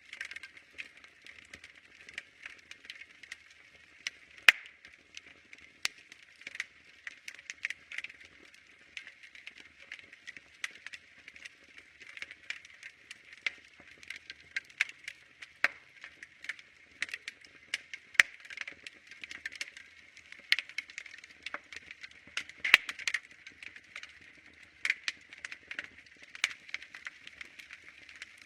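Wood fire crackling: many irregular sharp pops and snaps over a steady hiss, a few louder pops standing out.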